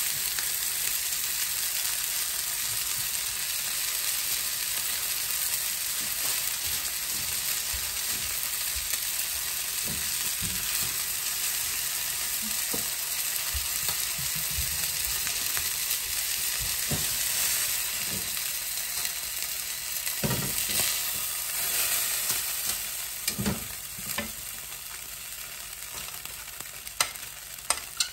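Chicken pieces frying in butter in a pan, a steady sizzle with now and then a short knock of a utensil against the pan. The sizzle grows quieter in the last few seconds.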